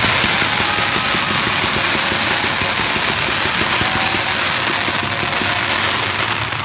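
A dense, continuous rush of crackling fireworks, steady throughout with no single bang standing out.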